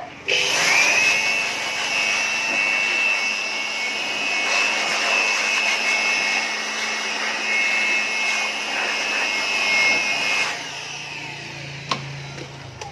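Electric air blower starting up, its motor whine rising quickly to a steady high pitch over a rush of air as it blows dust out of a TV's insides, then stopping about ten seconds in.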